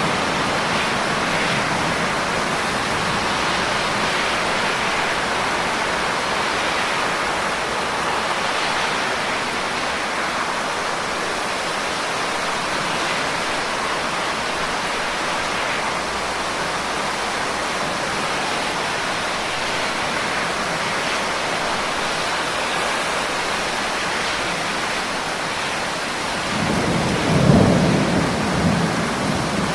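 Steady rain falling, with a low rumble of thunder rolling in near the end.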